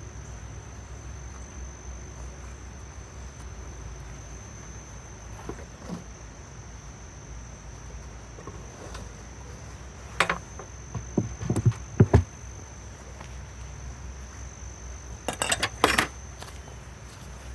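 Steady high-pitched insect trill, with a few sharp knocks and clatters of wooden hive parts being handled about ten seconds in and again near the end.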